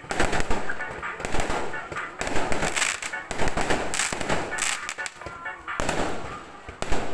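Fireworks going off in quick succession: many sharp bangs and crackles, coming in clusters.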